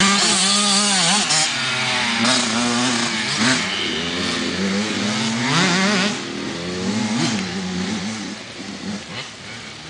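Motocross bike engine revving up and down with the throttle, loudest in the first six seconds and fading somewhat after.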